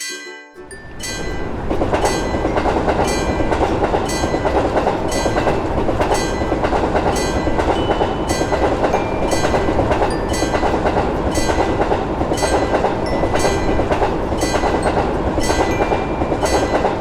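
Train passing at a level crossing: a loud, steady rumble that builds up about half a second in, with a sharp stroke repeating about twice a second throughout.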